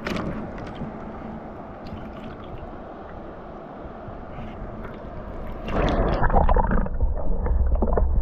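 River water rushing and splashing around a raft. From about six seconds in it grows louder, with sharper splashes and a low rumble.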